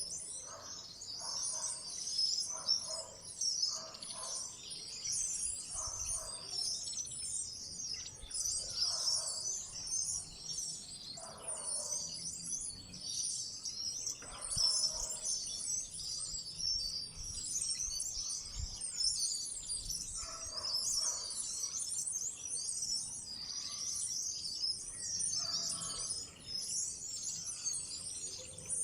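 A flock of small wild birds chirping in a dense, continuous high-pitched chatter, with lower, shorter calls breaking in now and then.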